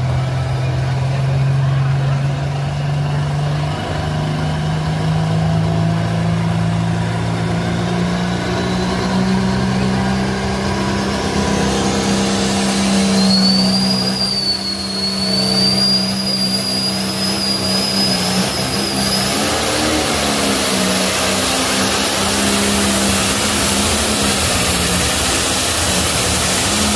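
Turbocharged diesel engine of a limited pro stock pulling tractor running hard under load during a pull, its note climbing slowly. A thin high whistle rides over it for several seconds midway.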